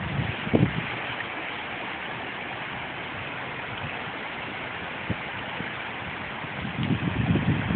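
Steady rush of flowing floodwater, with a couple of low thumps in the first second and low rumbling building near the end.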